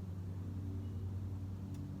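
A steady low motor hum, like an engine running, with a faint short high note about a second in.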